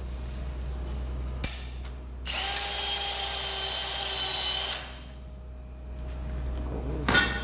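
A power drill runs for about two and a half seconds, a steady motor whine over a scrubbing hiss, cleaning a copper pipe fitting. A sharp click comes about a second and a half in, and a short clatter near the end.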